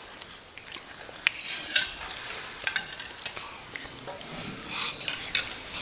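Irregular small sharp clicks and knocks, a dozen or so.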